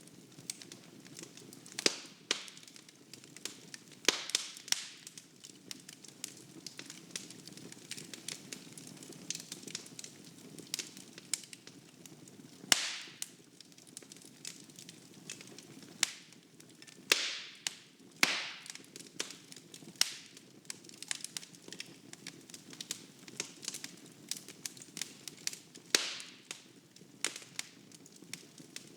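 Wood fire burning in a fireplace: a low steady rumble of flame with frequent crackles of burning logs and a dozen or so louder sharp pops scattered through.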